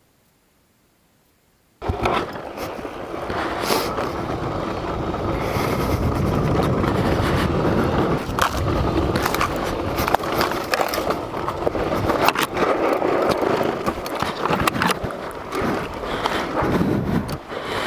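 Silence for the first two seconds, then suddenly loud rumbling and scraping noise full of sharp knocks and rattles. It sounds like a motorcycle being ridden over a rough, rocky trail, picked up through a helmet-mounted microphone.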